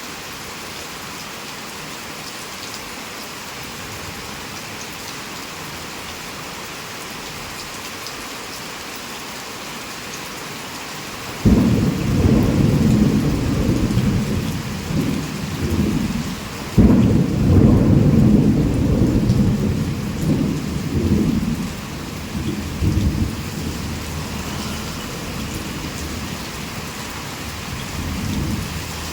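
Heavy rain pouring steadily. About eleven seconds in, a sudden thunderclap breaks into rolling thunder, with a second sharp crack about five seconds later, and the rumble dies away over several seconds into the rain.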